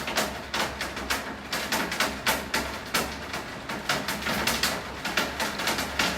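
Large raindrops striking a hard surface close by, an irregular patter of sharp knocks several times a second, over the steady hiss of rain.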